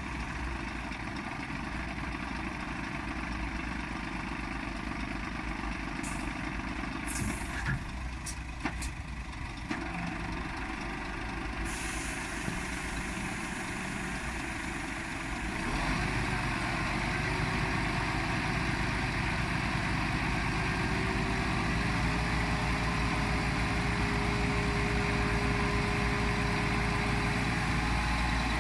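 Scania truck's diesel engine running, with a few short air hisses about 6 to 9 seconds in. About 16 seconds in the engine grows louder and keeps running steadily.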